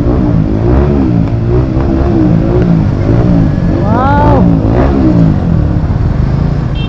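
Motorcycle engine running under way, its revs rising and falling repeatedly. A short tone rises and falls about four seconds in.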